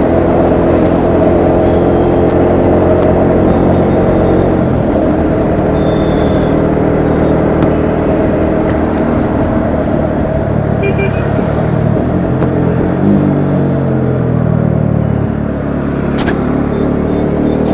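Bajaj Dominar 400's single-cylinder engine running under way, with road noise. The engine note falls back between about twelve and fifteen seconds in, then picks up again near the end.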